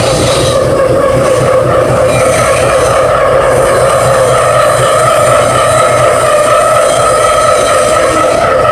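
CNC milling machine cutting a cast-iron bearing housing, a steady metal-cutting whine with two held tones over a hiss of cutting noise.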